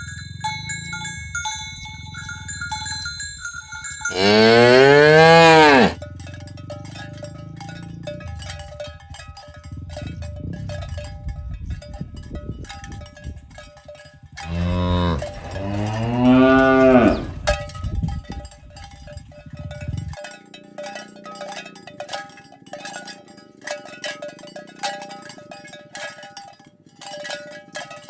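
A herd of cattle walking, their bells clanking and jingling steadily. A cow gives one loud, long moo about four seconds in, and two more moos follow close together about halfway through.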